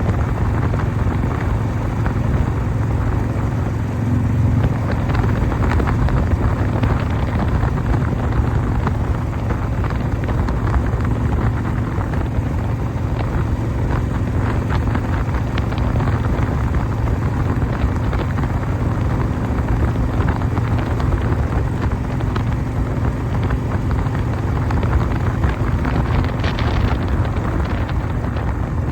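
A 1988 Harley-Davidson Softail's 1340 cc Evolution V-twin running at a steady speed under way, with wind buffeting the microphone.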